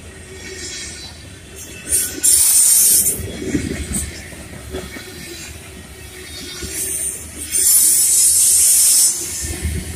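Freight train of covered hopper cars rolling past close by, wheels rumbling on the rail. Twice the passing cars give a loud, very high-pitched hiss, about a second long near two seconds in and about a second and a half long near eight seconds in.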